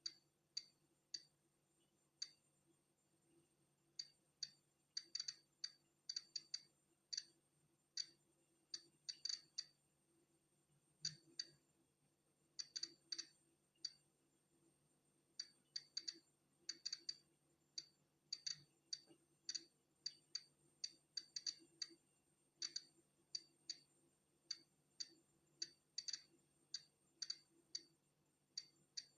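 Polon EKO-C digital Geiger counter clicking at irregular, random intervals, about two sharp clicks a second on average, sometimes several in quick succession: each click is a detected particle from natural background radiation.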